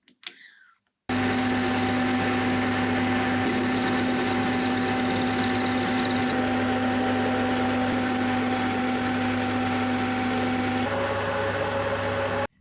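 A power tool or machine running at a steady speed with a constant hum. It starts abruptly about a second in, changes tone slightly near the end and then cuts off suddenly.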